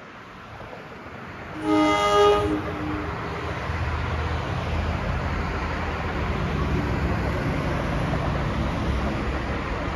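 Approaching commuter train sounding one short horn blast about two seconds in. After the blast, the train's rumble builds steadily as it draws nearer.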